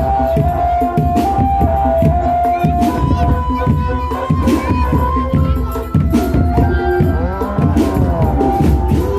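Drum band playing: drums beating in a steady rhythm under a melody of held notes, with a note that swoops up and down a little after two thirds of the way through.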